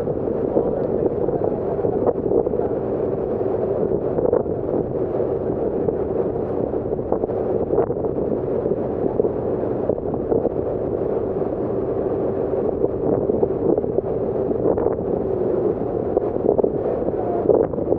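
Passenger ferry underway: a steady engine drone with a held hum, mixed with wind rushing over the microphone.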